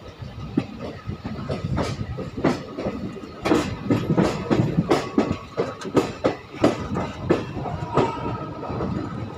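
Moving express train heard from the open door of a passenger coach: a steady rumble with the wheels clattering over rail joints and points in irregular sharp clicks and knocks.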